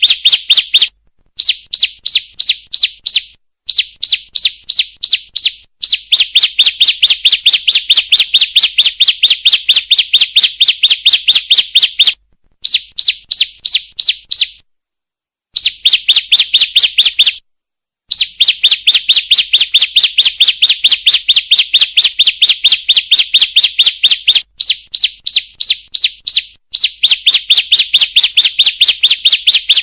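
Female ciblek (a prinia) call used as a bird lure: loud, sharp chirps repeated rapidly at about three to four a second, in long runs broken by brief pauses, the longest about a second near the middle.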